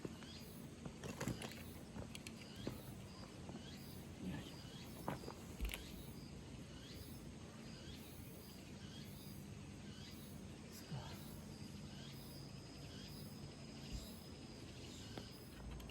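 Repeated short chirping calls from a wild creature, about one every three quarters of a second, over a faint steady high tone, with a few sharp clicks scattered through.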